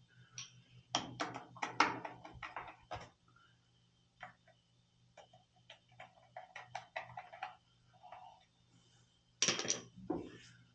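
Irregular clicks, taps and knocks of tools and parts being handled while an oil burner is reassembled, in clusters, with the loudest knocks near the end, over a low steady hum.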